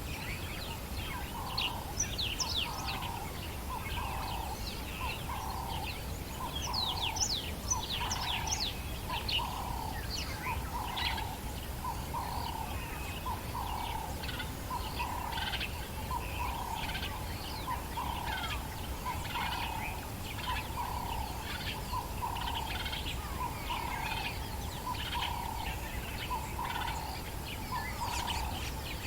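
Dawn chorus of African bush birds: one bird repeats a short, low note about once a second, while many others chirp and whistle in quick, high calls over it. A faint steady low rumble lies under the birdsong.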